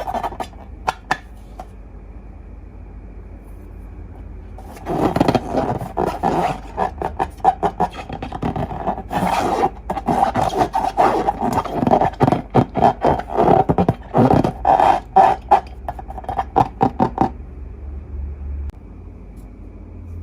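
Slime being squeezed and stretched by hand, giving a few crackles at first and then, from about five seconds in until near the end, a dense run of crackling pops and scrapes.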